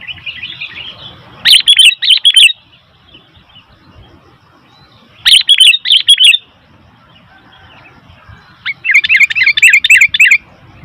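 Sooty-headed bulbul (kutilang) calling loudly: three bursts of quick, shrill chattering notes, each about a second long and the last one the longest, with softer chatter at the start.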